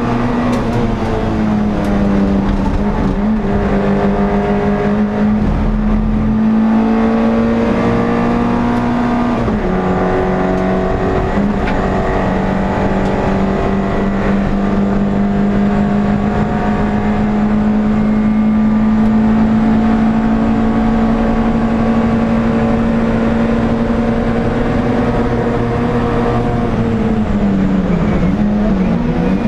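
NSU TT race car's air-cooled four-cylinder engine running hard at high revs, heard from inside the car. The pitch holds fairly steady with a few brief steps down and up as it shifts gears, then drops and climbs again near the end.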